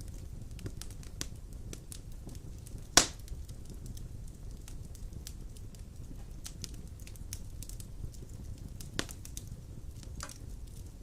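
Wood fire burning in an open fireplace: a low steady rumble of flames with scattered crackles, and a loud sharp pop about three seconds in and a smaller one near the nine-second mark.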